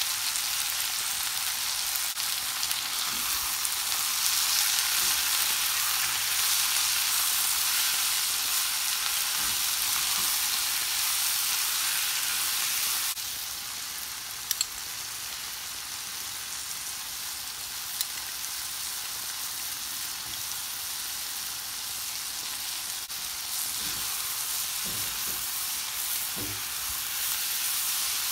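Onions and mixed vegetables sizzling in hot oil and ghee in a frying pan, a steady hiss that drops a little about halfway through. There are a couple of sharp ticks, and near the end a spatula stirs through the vegetables.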